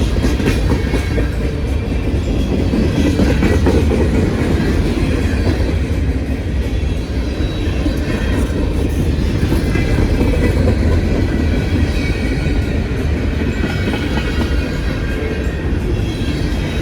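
CSX freight train's cars rolling past close by: a steady, loud rumble of steel wheels on rail with clickety-clack from the rail joints and a faint high wheel squeal at times.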